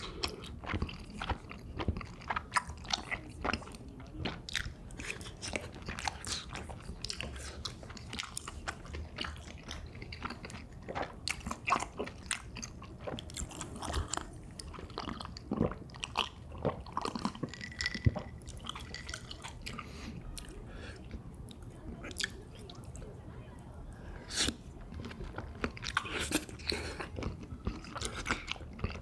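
Close-miked chewing and biting: wet smacks and irregular crunches of someone eating spicy pork cartilage and rice cakes, mouth close to the microphone.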